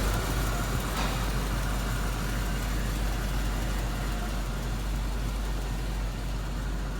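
2002 Cadillac Escalade's 6.0-litre V8 engine idling steadily and smoothly, running really nice.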